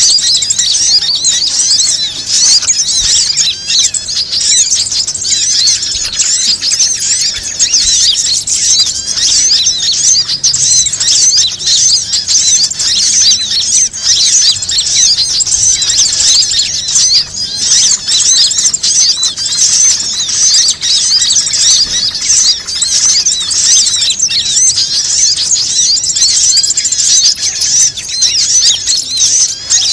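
Dense, unbroken chorus of many small birds chirping and twittering at a high pitch, a bird-lure (pikat) recording played to call in birds of all kinds.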